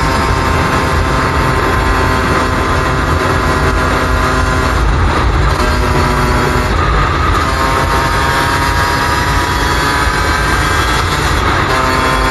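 Suzuki RM125 single-cylinder two-stroke dirt bike engine running under way, its note holding steady and shifting a few times midway, with heavy wind rumble on the microphone.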